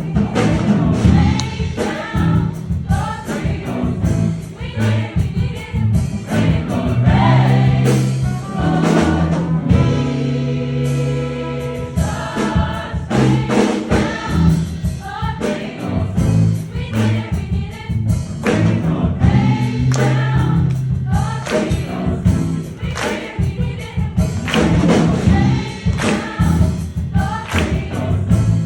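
A cappella vocal ensemble singing in full harmony over a sharp, steady percussive beat. About ten seconds in, the beat drops out for a couple of seconds while the voices hold a sustained chord, then it comes back.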